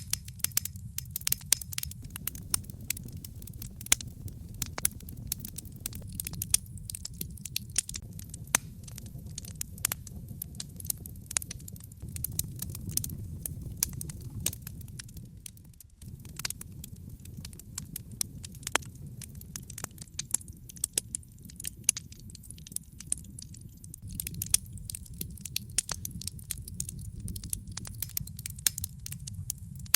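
Wood logs burning in a fireplace: a constant irregular crackle of sharp pops and snaps over a low, steady rumble of the fire.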